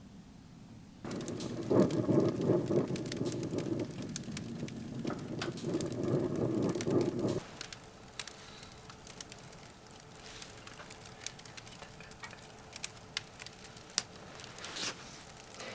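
Wood fire crackling in a titanium wood stove. About a second in, a louder, dense rushing crackle starts abruptly and cuts off sharply past the middle, leaving quieter scattered pops and snaps.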